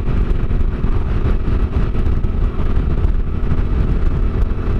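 Yamaha Ténéré 700's parallel-twin engine running steadily while the bike is ridden, a constant engine note over a heavy low rumble.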